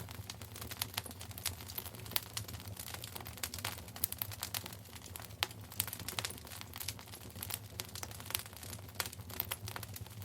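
Wood fire burning in a fireplace, crackling with many irregular sharp pops and snaps over a steady low rumble of the flames.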